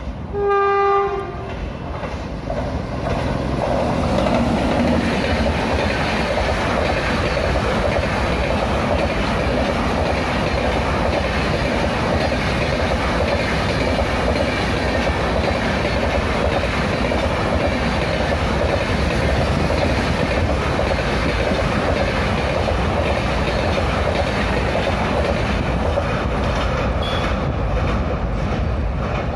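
A Humsafar Express passenger train running through a station at speed without stopping. The approaching locomotive sounds one loud horn blast of about a second, then the rumble and clickety-clack of the passing coaches swells over the next few seconds and holds steady.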